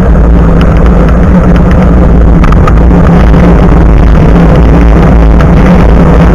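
Loud, steady wind buffeting and road rumble picked up by an action camera's built-in microphone mounted low above a bike's front tyre while riding, with scattered small rattles and knocks.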